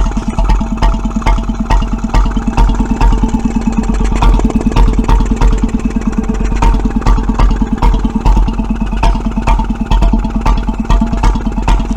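Petter M 1.5 hp paraffin stationary engine running steadily, with regular sharp exhaust beats, two or three a second.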